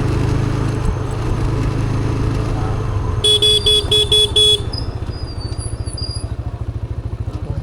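TVS Raider 125's single-cylinder engine running while riding, with a vehicle horn beeping five times in quick succession about halfway through. After the beeps the engine settles into a slower, evenly pulsing beat.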